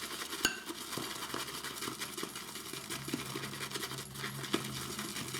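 Synthetic shaving brush whisking shaving soap into lather in a bowl: a continuous, fast, soft clicking and swishing of wet bristles against the bowl.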